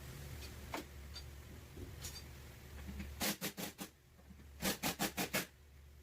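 Hand bodywork on a car body panel: two quick runs of short scraping strokes, four and then five, about six a second, over a low hum that stops about halfway through.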